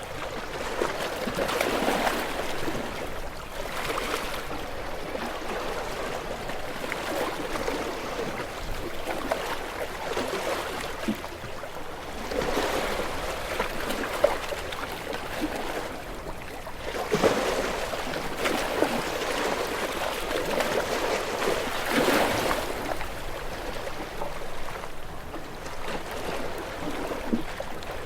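Ocean waves washing in, a steady rush of water that swells into louder surges every few seconds.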